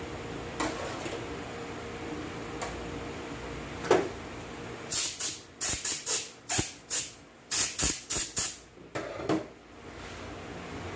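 Compressed air from an air blow gun, fired in a quick run of about a dozen short hissing blasts in the second half, as used to blow out or air-test automatic transmission parts. A single knock comes just before, over a steady low hum.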